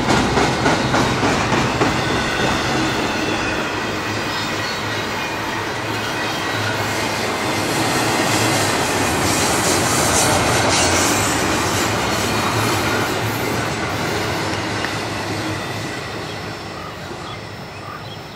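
Freight train of double-stack intermodal well cars rolling past, steel wheels on the rails making a dense, steady rail noise. It swells to its loudest around the middle, then fades steadily over the last several seconds as the end of the train moves away.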